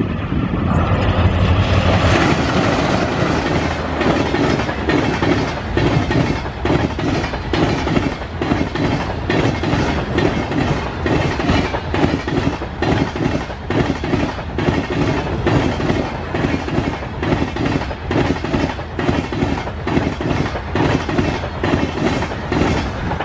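A fast passenger train hauled by twin WDM3A diesel locomotives passing close by: a deep engine rumble in the first two seconds, then the coaches' wheels clickety-clacking over rail joints in a steady, even rhythm of about two beats a second.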